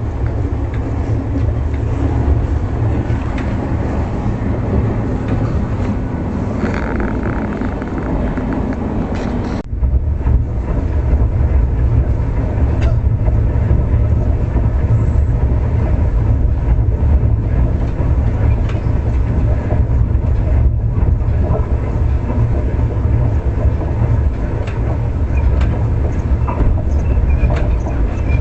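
Moving passenger train's steady low running rumble. About a third of the way through the sound changes abruptly, the hiss above the rumble dropping away, and the deep rumble carries on.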